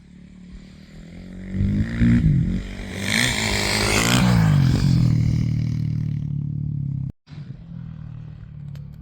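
Motorcycle engine revving up and down, growing loud around three to five seconds in, then running at a steadier pitch; the sound cuts out for a moment about seven seconds in and returns quieter.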